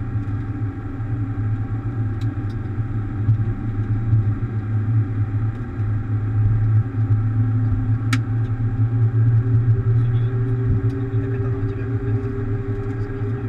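Steady low rumble and hum inside a Boeing 737 cockpit, with several steady tones over it and a single sharp click about eight seconds in.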